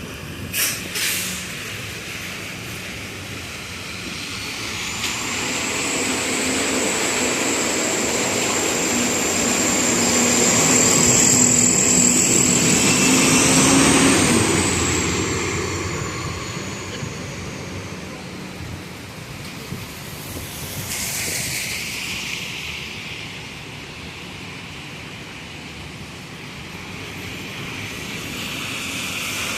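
A subway train passing on the elevated tracks, its noise swelling and then fading, with a long high squeal from the wheels that rises slightly before dying away. About 21 seconds in there is a short hiss of air, like a bus's air brakes.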